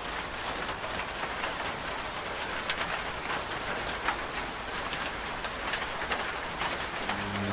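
Steady rain falling, with scattered drops ticking sharply on a surface. Near the end a washing machine's low, steady hum comes in under the rain.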